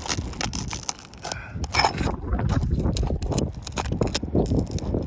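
Irregular scraping and clicking of a hand tool working under roof shingles to get at the nails holding them.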